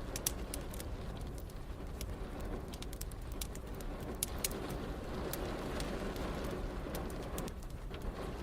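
Wood fire crackling with scattered sharp pops over a steady low rush of rain.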